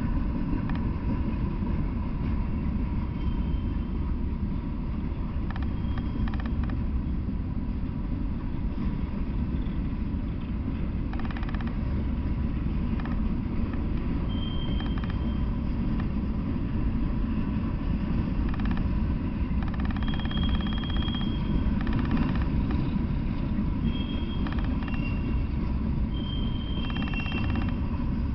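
Norfolk Southern freight train of coal hopper cars rolling past at a steady pace: a continuous rumble of steel wheels on rail. Short high-pitched squeals come and go several times in the second half.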